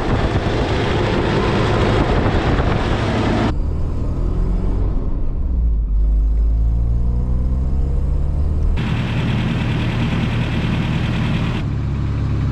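Toyota 22R-E four-cylinder engine running in a series of short clips, its valves freshly adjusted and its belts new. The pitch shifts in the middle, and the engine settles to a steady idle near the end.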